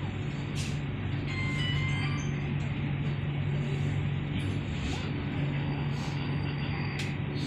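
Chennai Metro train running, heard from inside the car: a steady low hum with an even rush of running noise and a few light clicks.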